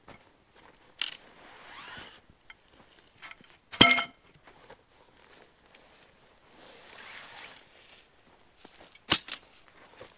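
Rustling and scattered knocks of gear being handled. About four seconds in comes one loud, ringing metallic clank, and near the end a sharp double knock.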